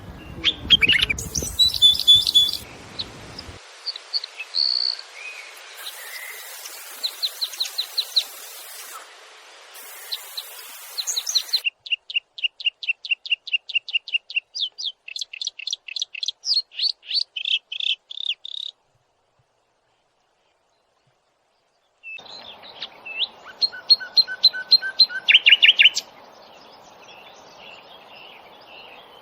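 Small songbirds chirping and singing in short spliced stretches. A long series of quick, evenly repeated notes, about four a second, runs through the middle. The sound cuts out completely for about three seconds before the chirping resumes.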